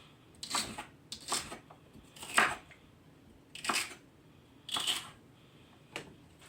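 Knife cutting through celery stalks onto a cutting board: six crisp, separate chops about a second apart, the loudest about two and a half seconds in.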